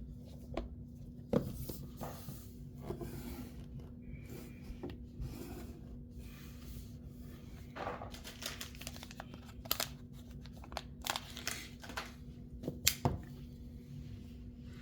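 Packaging being torn open and handled by hand: irregular tearing and crinkling rustles with a few sharp clicks and taps, over a faint steady hum.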